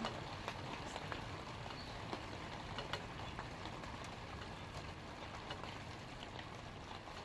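Light rain falling on leaves: a steady patter dotted with many separate sharp drop hits.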